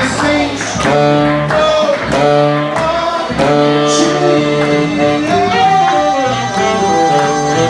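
New Orleans-style jazz band playing, with one long held note in the last couple of seconds.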